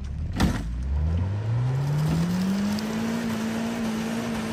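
Manual Honda Fit's engine revving up steadily over about three seconds and held at high revs as its wheels spin on a steep dirt climb. A sharp knock comes about half a second in.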